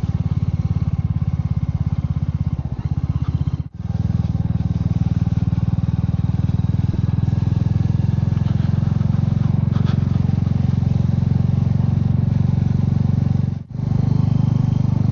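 Royal Enfield Meteor 350's single-cylinder engine running steadily while riding, dipping sharply for a moment twice, about four seconds in and near the end.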